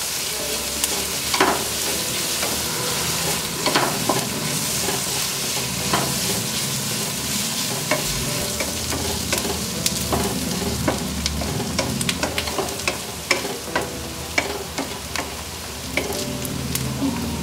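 Sliced onions and green chillies sizzling in coconut oil in a kadai, stirred with a spatula that scrapes and clicks against the pan at irregular intervals.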